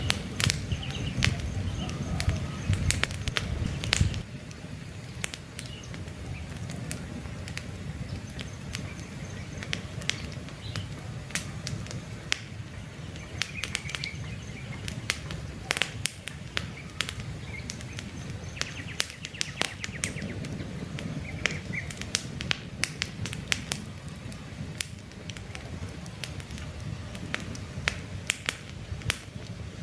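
Wood campfire crackling, with frequent sharp pops and snaps over a steady hiss of burning. Birds chirp faintly now and then. A heavier low rumble drops away about four seconds in.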